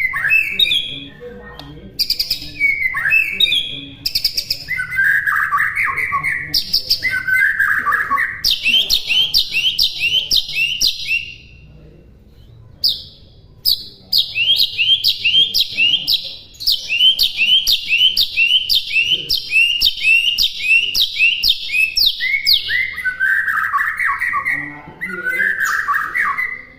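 White-rumped shama (murai batu) singing a loud, varied song. It has long runs of quick, repeated falling whistled notes, about three a second, with lower warbling phrases near the start and near the end.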